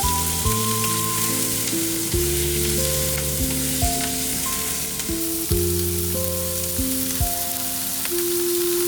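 Food frying in a hot pan with a steady sizzle, under background music with held notes that change every second or so.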